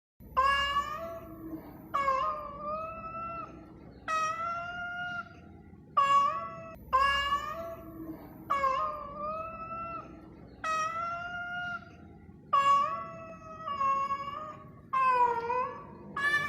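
A mother cat meowing over and over, a loud drawn-out call about every one and a half to two seconds, each falling away into a quieter tail. It is a mournful call of a mother that has lost her four kittens.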